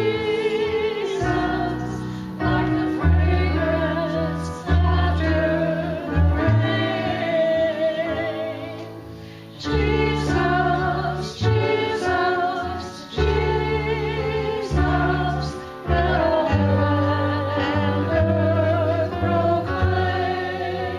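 Voices singing a slow hymn over keyboard accompaniment, with long held notes and sustained low chords.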